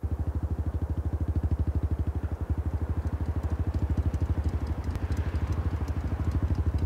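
Motorcycle engine idling: a steady, even low beat of about thirteen pulses a second.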